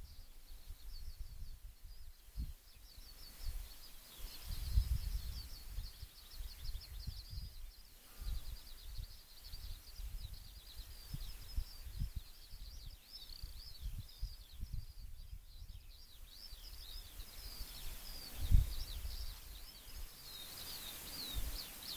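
Small birds singing without a break, a steady stream of rapid, high-pitched chirps and trills. Irregular low rumbles and bumps sound underneath, loudest about five and eighteen seconds in.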